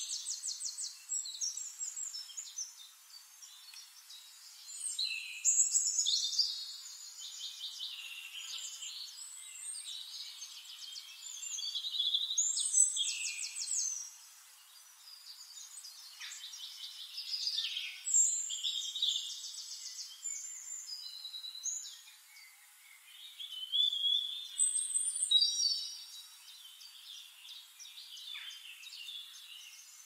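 Birds calling in trees: bursts of raspy, pulsed calls and chirps come every few seconds, with quieter chirping in between.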